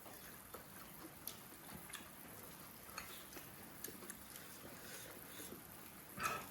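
Faint, scattered clicks of chopsticks and spoons against bowls during a hotpot meal, with one louder ringing clink near the end.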